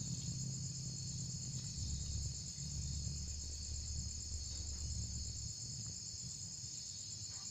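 Crickets chirring steadily, with a low rumble underneath.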